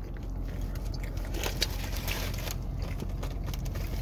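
Biting into a large barbecue sandwich and chewing it close to the microphone, with a few crackly, squishy bursts about a second and a half to two and a half seconds in.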